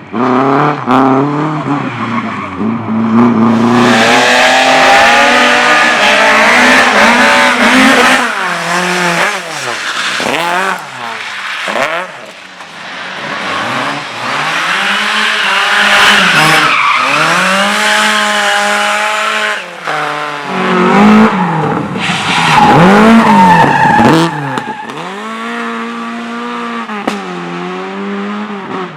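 A competition car engine revving hard and dropping back over and over as it is driven. Tyres squeal from about four seconds in.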